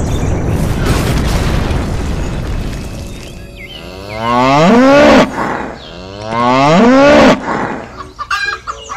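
An explosion's deep rumbling boom fading away, then cattle mooing twice, loud, each moo about a second long, rising then falling in pitch.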